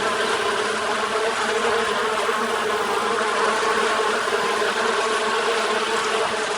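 Honeybees buzzing around an opened hive: a steady, dense hum of many wings.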